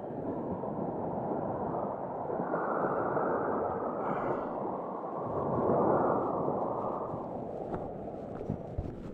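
Sea waves washing onto the shore in a steady rush that swells twice, with a brief high call about four seconds in.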